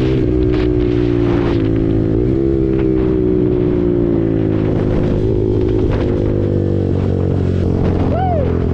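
KTM RC 390's single-cylinder engine running through an SC Project exhaust at steady cruising revs, its pitch easing down slightly, with a brief dip about two seconds in. Wind buffets the microphone throughout, and a short rising-and-falling chirp comes near the end.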